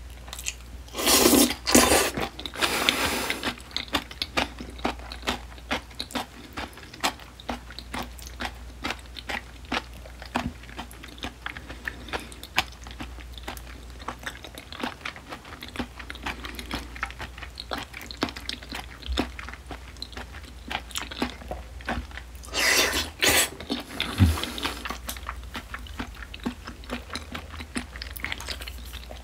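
Close-miked chewing of a mouthful of spicy seasoned raw oysters (gulmuchim): a steady run of wet mouth clicks and squishes, with louder crunching stretches about a second in and again near the end.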